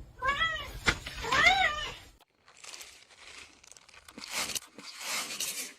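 A domestic cat meows twice, each call rising and then falling, with a sharp click between the two. After that comes a stretch of dry rustling and crinkling noises.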